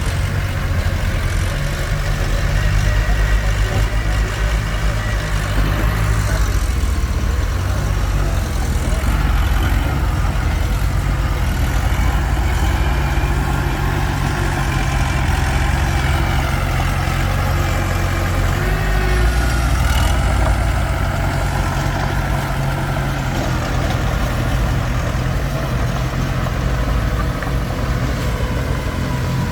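Komatsu D21P small crawler bulldozer's diesel engine running steadily while working. Its pitch shifts a little a few times, and a fainter wavering higher tone rides over it.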